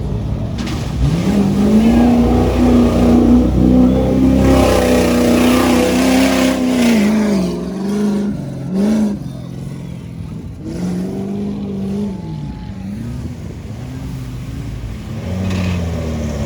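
Off-road 4x4 vehicle engine revving hard under load, its pitch climbing about a second in, holding, then dropping and rising again several times as the throttle comes on and off.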